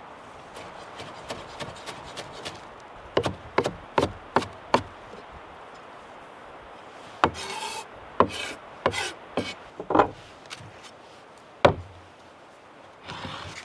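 Kitchen knife working on a wooden cutting board: irregular sharp knocks, with short scrapes along the board in between.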